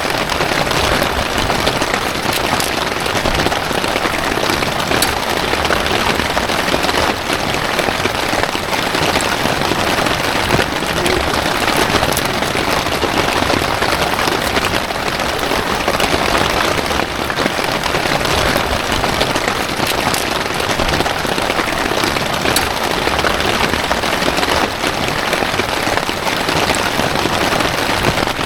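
Heavy storm rain pouring steadily, a dense loud hiss with many sharp drop ticks through it.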